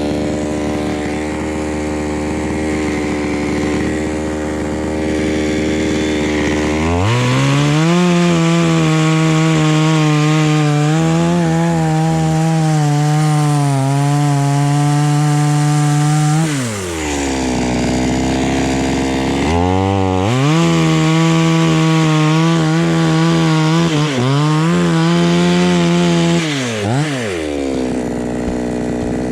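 Two-stroke chainsaw idling, then run at full throttle twice, for about nine and seven seconds, its note wavering as it cuts into wood, dropping back to idle between and after the cuts.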